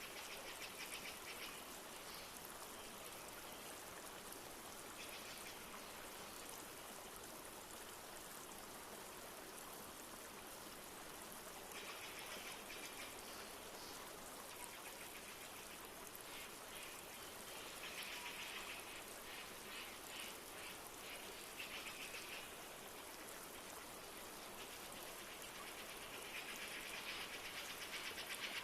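Steady rushing of a flowing river in a rainforest, with bird trills breaking in and out every few seconds, the loudest near the end.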